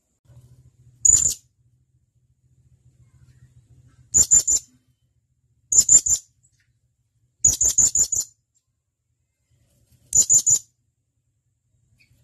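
Blue-crowned hanging parrot (serindit) giving sharp, high-pitched calls: five short bursts of quick notes, a second or two apart.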